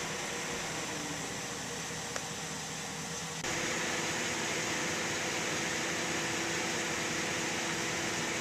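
Steady mechanical hum and hiss, stepping up abruptly in level about three and a half seconds in.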